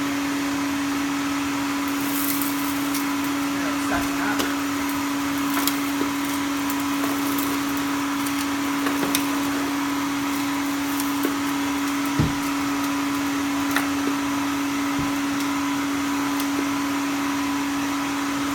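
Electrolux 1453 canister vacuum running steadily with a constant hum and rushing air while its power nozzle vacuums. Scattered sharp clicks and ticks come through as sand, grass and debris are picked up, the loudest about twelve seconds in.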